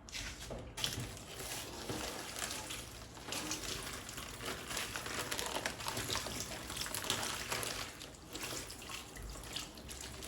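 Tap water running and splashing into a sink.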